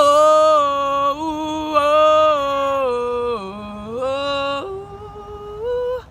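A woman singing unaccompanied, holding long sung "oh" notes that sink to a low note midway and then climb to a higher held note near the end.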